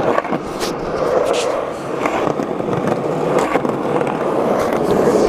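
Skateboard wheels rolling over pavement in a steady rumble, with several sharp clacks and knocks from the board along the way.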